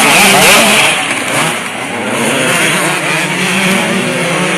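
Several motocross motorcycles revving hard, their engine notes rising and falling in pitch over one another, loudest in the first second.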